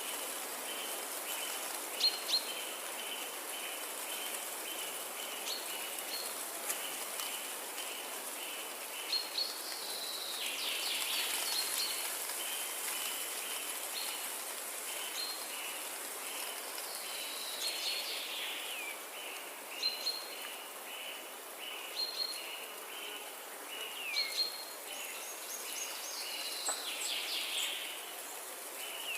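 Forest ambience: birds calling, with short chirps and several falling whistled notes, over a steady hiss and a short pulsed call that repeats about twice a second.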